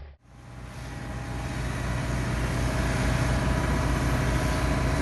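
Diesel engine of a piece of heavy earth-moving equipment running steadily. The hum fades up over the first two seconds and then holds even.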